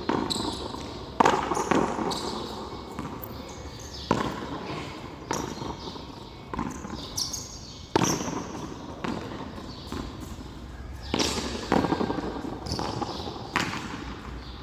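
A frontón handball rally: the ball smacked by bare hands and rebounding off the wall and floor, sharp echoing hits every second or two.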